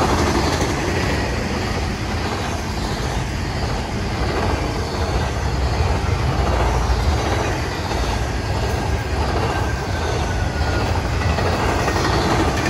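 Double-stack intermodal freight train's container-laden well cars rolling past: a steady rumble and rattle of steel wheels on rail.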